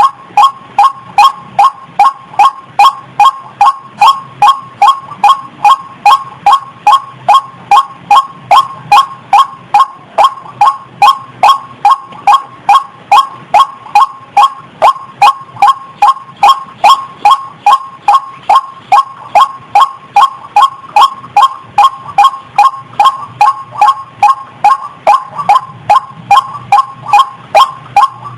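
Female rail (the bird sold in Indonesia as ayam-ayaman or ruak-ruak) calling in breeding condition, the call used to lure the species. It is a fast, unbroken series of short, loud notes, each sliding down in pitch, about three a second.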